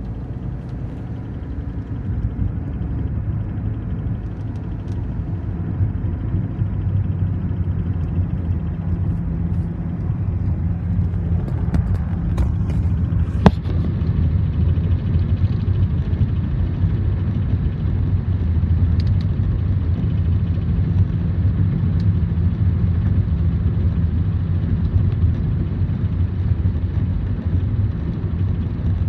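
A 2007 Toyota Prius making a steady low droning noise, growing a little louder over the first several seconds, with a few clicks and one sharp click about halfway through.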